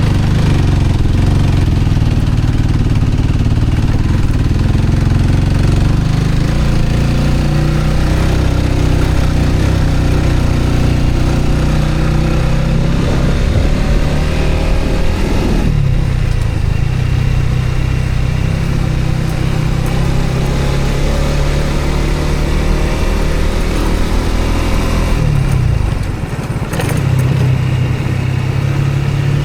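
A vehicle's engine running steadily while driving, with road noise. Its pitch shifts about halfway through, and it dips briefly near the end before picking up again, as with a change of speed or gear.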